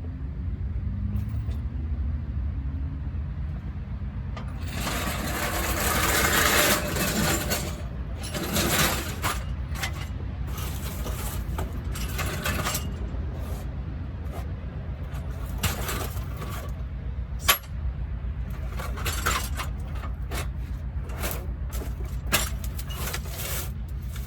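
Metal clinks, knocks and scrapes from tools and parts being handled during clutch and transmission work, over a steady low rumble, with one sharp clank in the second half.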